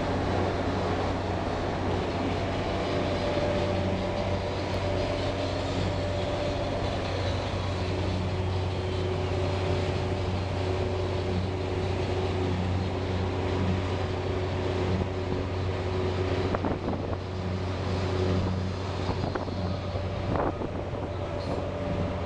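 A boat's engine running steadily underway: a constant low drone with steady tones above it, over an even hiss.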